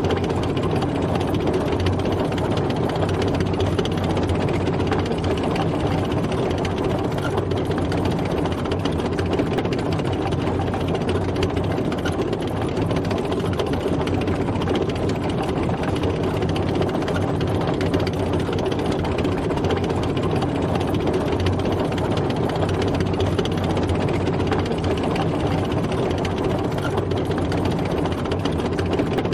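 Tank driving, its engine running steadily at an even pitch with no change in speed.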